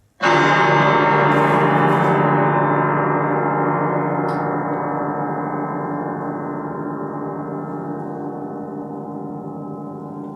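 A gong struck once, ringing on with many wavering tones and slowly dying away.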